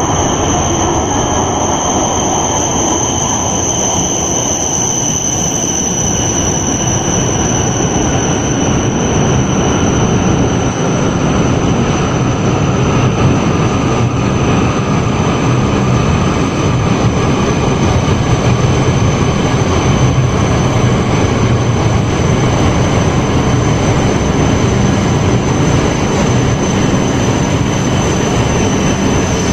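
Cabin noise inside an E5-series Shinkansen train as it runs: a steady rumble of wheels and rail with a thin high whine held above it.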